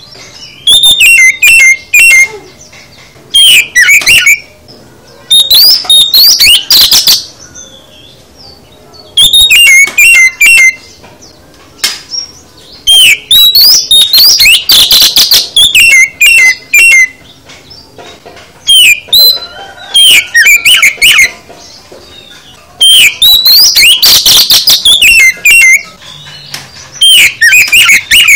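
Oriental magpie-robin (kacer) singing loudly in repeated phrases of rapid, varied whistles and chirps. Each phrase lasts a second or two, with short pauses between them.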